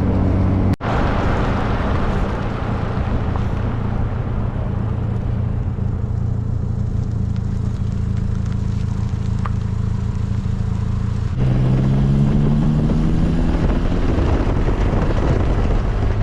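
The 1275cc MG Midget's A-series four-cylinder engine running with road and wind noise around the open-top car. About eleven seconds in, the engine note grows louder and climbs steadily in pitch as the car accelerates.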